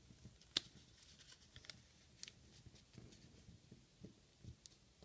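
Origami paper being folded by hand: faint rustling and crinkling, with a sharp crackle of the paper about half a second in and a few lighter ticks after it.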